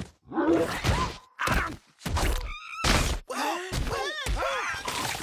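Cartoon sound effects: a run of sudden thuds and knocks mixed with short grunting and squeaky cries that bend in pitch.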